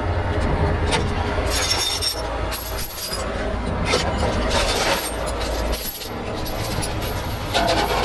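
A heavy truck engine running steadily, with scattered metallic clinks and knocks.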